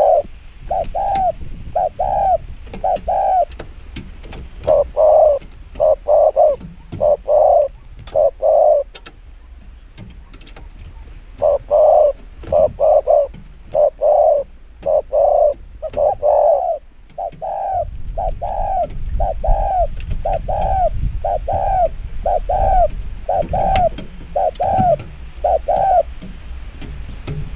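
Zebra dove cooing in rapid runs of short, arched coos, about two a second, with brief pauses between runs. A low rumble joins in about two-thirds of the way through.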